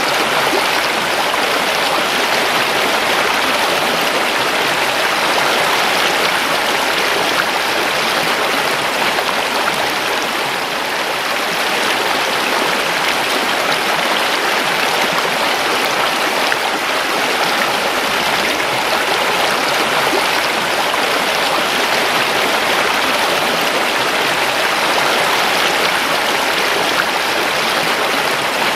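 A river flowing steadily, its water rushing and splashing without letup.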